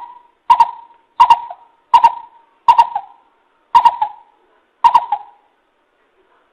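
Coucal (bìm bịp) lure call: a series of seven short hooting notes, each with a sharp start and a quick fade, the gaps between them slightly widening.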